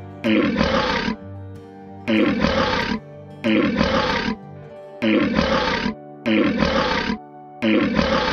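A big cat's roar, the same short roar repeated six times about every second and a half over a background music bed of steady held notes.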